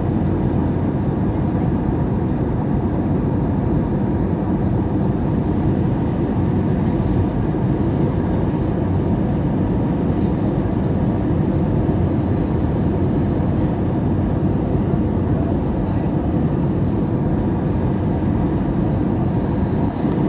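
Airbus A321-200 in flight: steady, even engine and airflow noise that does not change for the whole stretch.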